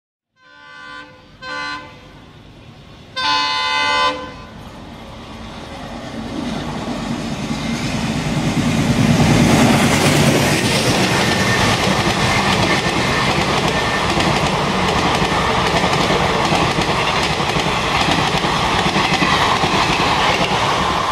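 Indian Railways diesel locomotive horn sounding two short blasts and then a longer blast, followed by the diesel-hauled passenger train running past at speed. Its passing noise builds from about five seconds in and stays loud and steady from about nine seconds on.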